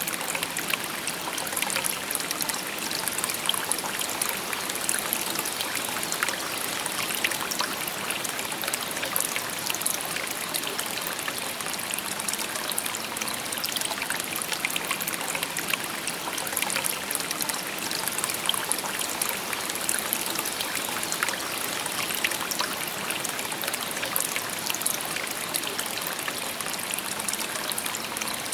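Shallow river stream babbling steadily over stones, a dense, even trickle and splash of water with many small bright droplet sounds.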